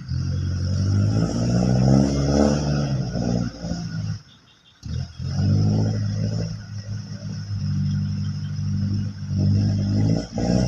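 Motor vehicle engine running and revving, its pitch shifting up and down, with a brief break about four seconds in.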